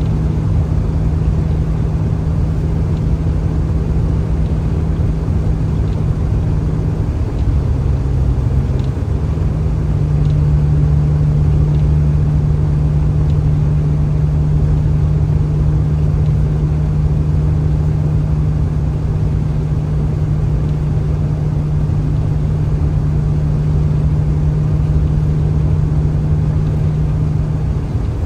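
Steady engine and road drone of a vehicle driving along a highway, its hum dipping in pitch about seven seconds in and rising back a couple of seconds later.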